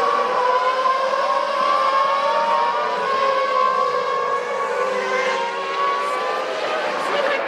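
Several Formula One car engines running together at high revs, their overlapping pitches steady and drifting slowly up and down.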